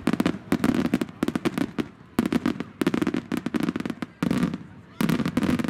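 Aerial fireworks shells bursting in quick volleys: clusters of sharp bangs and crackles, several cracks in each cluster, with short gaps between the clusters.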